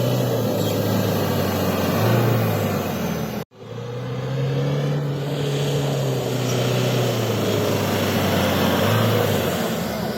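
Diesel 4x4 SUV engine running under load as it pulls through soft ground, its pitch rising briefly twice. The sound cuts out abruptly for a moment about a third of the way through, then carries on.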